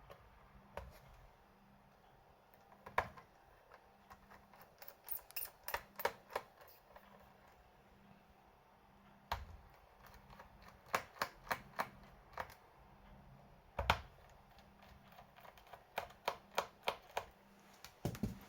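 Sharp clicks and taps from working on a laptop, some single and some in quick runs of a few a second.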